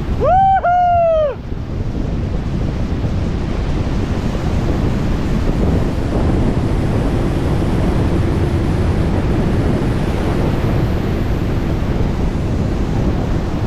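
Strong airflow rushing over the microphone of a wingsuit pilot in free flight, a steady roar of wind. A short whooping shout rises and falls right at the start.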